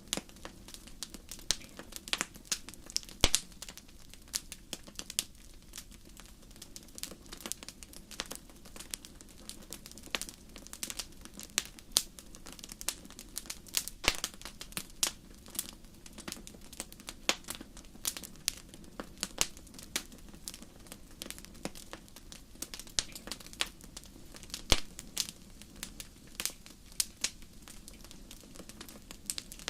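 Wood fire in a fireplace crackling: irregular sharp pops and snaps, several a second, over a steady low rush of the burning fire.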